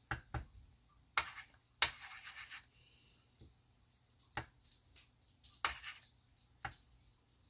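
Marker tip tapping and drawing short strokes on glossy photo paper: a handful of quick scratchy taps, with one longer drawn stroke about two seconds in.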